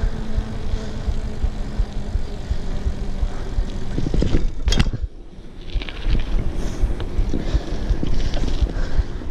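Wind rushing over the microphone while riding a bike, a steady rumbling noise, with a short click and a brief dip in the noise about five seconds in.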